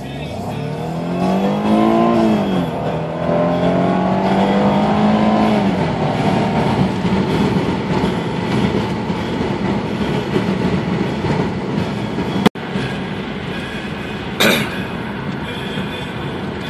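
Jaguar X-Type engine at full throttle: the revs climb, drop at a gear change, climb again to a second shift, then settle into steady running. A sharp click comes about twelve seconds in, and a short loud burst about two seconds later.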